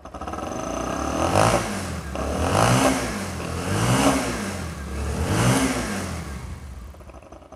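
Motorcycle engine revved with four quick throttle blips, each rising and falling in pitch, then settling back to idle near the end.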